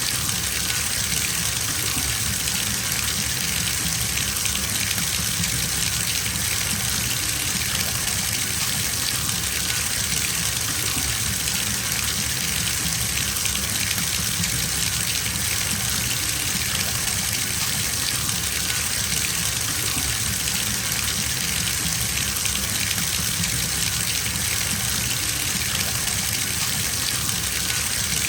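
Bathtub filling from a running tap, water gushing steadily into the tub.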